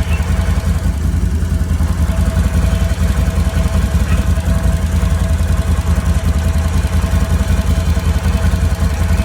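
Can-Am Renegade XMR 1000 ATV's V-twin engine running steadily at idle.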